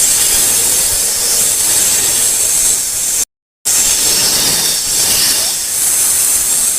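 Snake hissing: two long, steady hisses. The first breaks off about three seconds in and the second starts a moment later.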